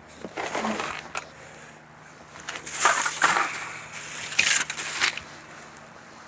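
Three bursts of rustling and clatter over a faint steady hum, the loudest about three seconds in.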